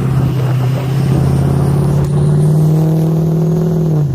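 Diesel pickup engine running loud through a 10-inch exhaust stack while the truck pulls through deep snow in four-wheel drive. The revs climb slowly over the last two seconds, then drop off sharply at the end.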